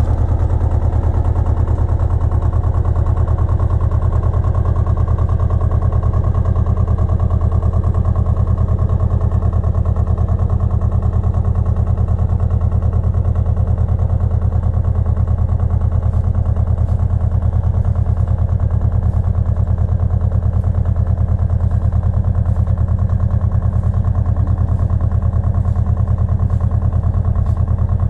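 Pasquali 980 EX compact tractor engine running steadily at constant throttle. Faint regular ticks sound in the second half.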